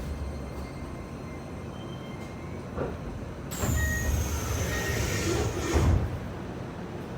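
Keisei 3000-series commuter train heard from inside a car while running: a steady low rumble of wheels on rail. About halfway through, a loud rushing noise with a high, slowly falling whine comes in for about two and a half seconds, then drops back to the rumble.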